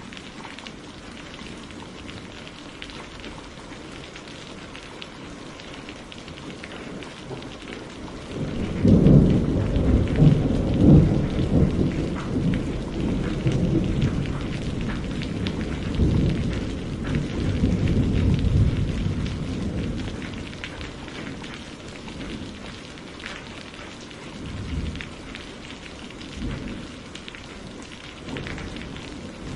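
Steady rain pattering, with a long roll of thunder rumbling in about a third of the way through, loudest in its first few seconds and dying away over about ten seconds; faint further rumbles come near the end.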